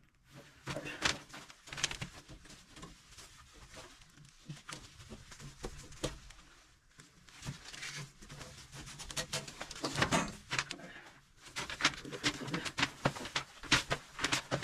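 Irregular clicks, taps and scrapes of hands and tools working on a gas boiler, with denser clusters about ten seconds in and near the end.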